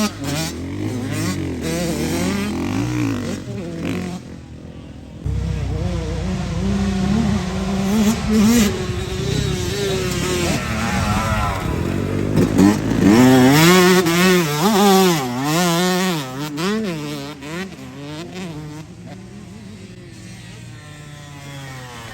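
Stark Varg electric dirt bike ridden hard, its motor whine sweeping up and down in pitch again and again with the throttle, over a rushing noise. The level dips briefly about four seconds in.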